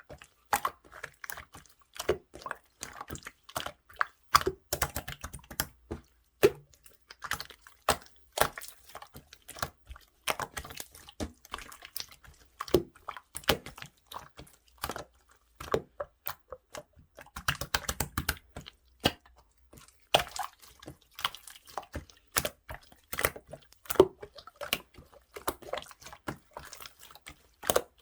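Clear, watery slime being squeezed and poked by hand: an irregular run of sharp, wet clicks and small pops.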